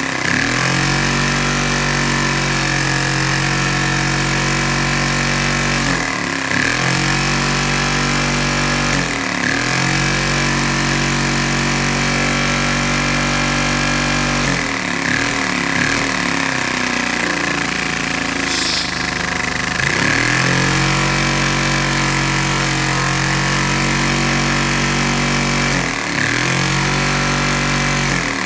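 Vacuum cleaner motor running with a steady whine, its pitch briefly dropping and recovering about five times.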